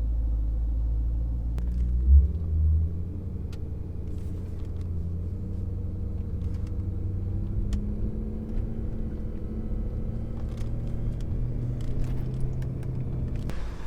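BMW E92 M3's 4.0-litre V8 running at low revs on a fresh E85 tune, a steady low rumble with two short louder bumps about two seconds in; its pitch slowly rises later on.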